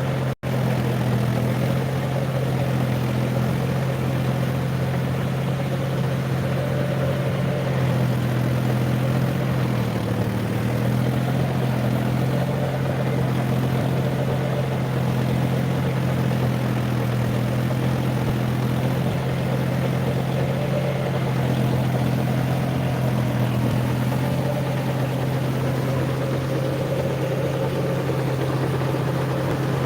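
John Deere 5050D tractor's three-cylinder diesel engine running steadily while driving a 72-blade rotary tiller, with a slight dip in pitch about ten seconds in. The sound cuts out for an instant about half a second in.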